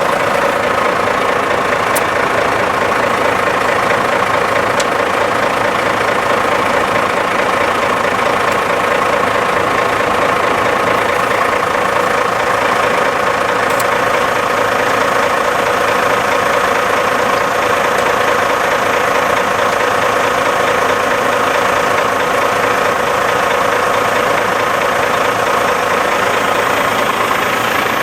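Heavy 8x8 truck's diesel engine idling steadily while its tyres are deflated by the on-board tyre pressure control system.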